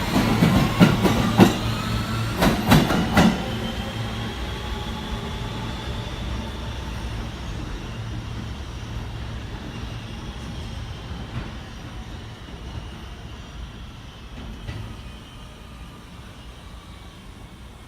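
Train running, with several sharp clacks in the first three seconds and a whine that glides slowly in pitch, growing steadily fainter as it moves away.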